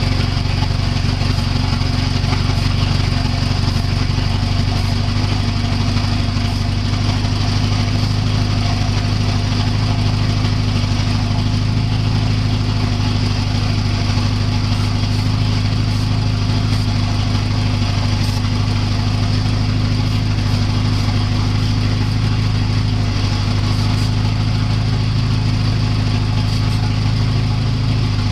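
Volvo 740 engine idling steadily, running during a vacuum-leak check.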